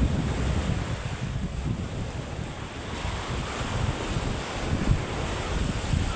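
Surf washing onto the beach under strong wind, with gusts buffeting the microphone in uneven low rumbles. The sea is rough ahead of an approaching typhoon.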